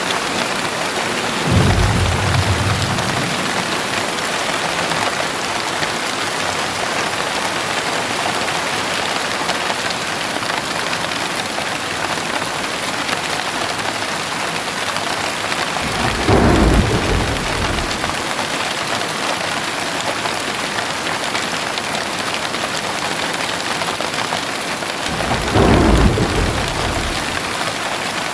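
Heavy rain falling steadily, with three short low rumbles of thunder: about a second and a half in, about sixteen seconds in, and about twenty-five seconds in.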